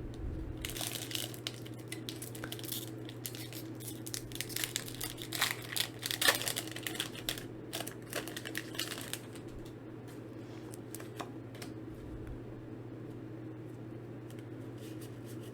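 Foil Pokémon booster pack wrappers crinkling and rustling as they are handled and torn open, busiest in the first nine seconds and then dying down to a few light clicks.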